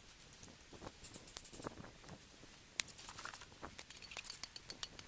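Wood fire crackling, with irregular small pops and snaps and one sharp, louder pop about three seconds in.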